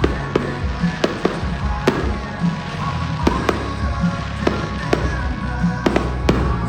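Fireworks going off in a rapid, irregular string of sharp bangs, about two a second, over music.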